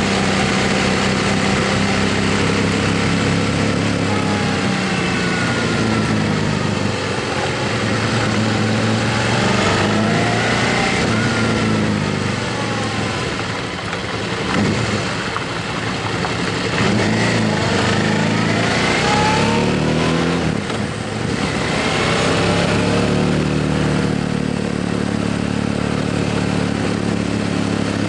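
Motorcycle engine running under way, its pitch rising and falling repeatedly as the revs change, over a steady rush of wind noise.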